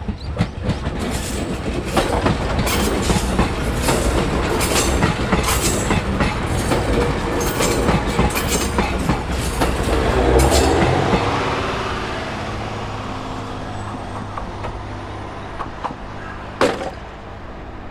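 JR East GV-E400 series diesel-electric train passing at speed. Its wheels click and clatter over the rail joints, loudest about ten seconds in. Then the clatter dies away and a low engine hum fades out as the train moves off.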